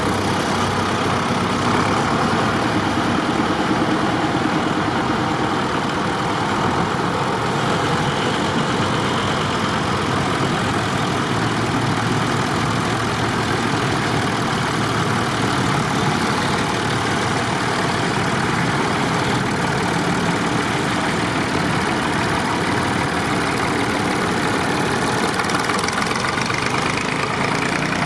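Tractor engines running steadily, with no sudden events.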